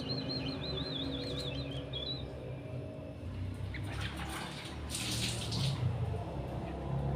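A bulbul singing a quick warbling trill for about the first two seconds, then a brief rustling splash about five seconds in.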